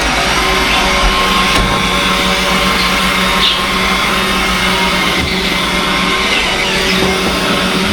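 Robot vacuum cleaner running with a steady whir.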